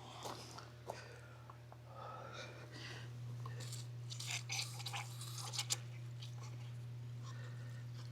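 Quiet handling noises, scattered clicks and soft rustles, over a steady low hum.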